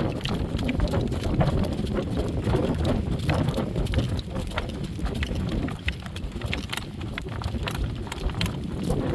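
A driving horse trotting in harness, hooves clip-clopping on soft ground, with a steady low rumble under the hoofbeats from the cart and the wind.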